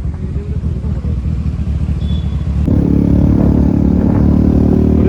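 Motorcycle engine running under a low rumble of wind and road noise. About two and a half seconds in, the engine note gets louder and then holds at a steady pitch.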